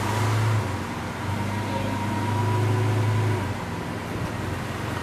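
Lamborghini Veneno Roadster's V12 running at low revs with light throttle swells, as the car creeps slowly down wooden loading ramps. The engine note holds steady, rising a little in level near the start and again past the middle.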